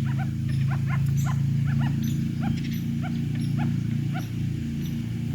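A series of short, repeated animal calls, roughly two or three a second, over a steady low hum.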